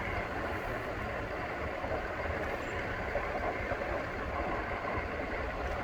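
Steady wind rumble on the microphone over a low, even street noise, with no sudden sounds.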